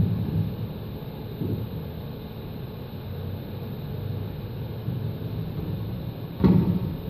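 Low rumbling machine-shop noise around a CNC lathe, with a loud thump about six and a half seconds in and a softer knock about a second and a half in.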